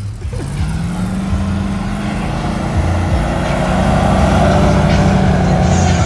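Pickup truck engine and exhaust rumbling as it drives slowly past, growing louder toward the end.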